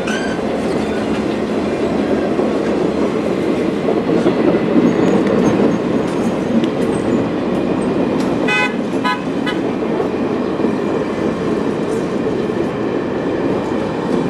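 Train of diesel locomotives and cars rolling past at close range, a loud steady rumble of wheels on rail and running engines. About halfway through, a quick run of high ringing notes sounds over it.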